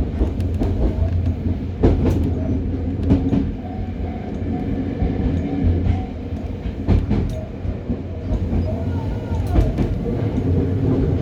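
Hokuriku Railroad 03 series trailer car running, heard from inside: a steady low rumble of steel wheels on rail, with pairs of sharp clicks every few seconds as the bogies pass over rail joints.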